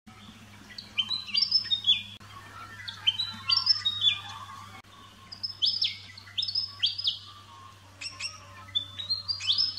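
A songbird singing four short phrases of quick chirping notes, about two seconds apart, over a faint steady low hum.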